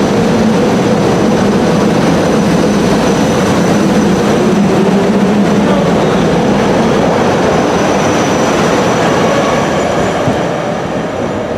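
Commuter train running through the station, a loud, steady rumble of wheels and motors that begins to fade near the end.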